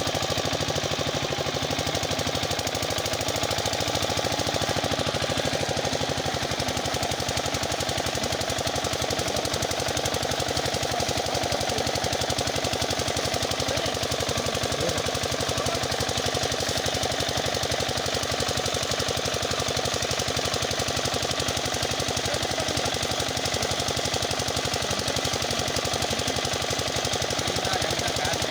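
An 8 HP single-cylinder diesel pumpset engine running steadily with a fast, even knocking beat, driving the water pump on a newly drilled borewell.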